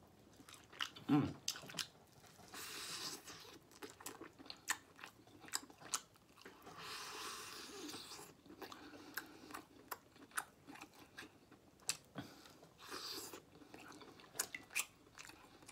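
A person chewing and biting smoked turkey leg meat off the bone, with many short sharp smacks and clicks of the mouth.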